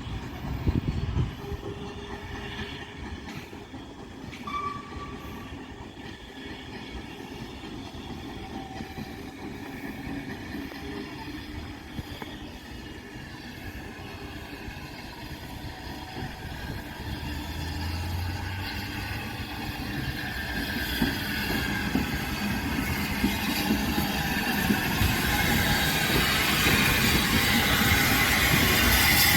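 A train running on the line, its rumble and rail noise growing steadily louder through the second half as it draws closer.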